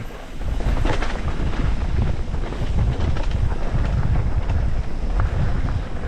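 Wind buffeting the microphone over rumbling and rattling from a mountain bike riding a rough trail. It jumps to a loud, steady level about half a second in.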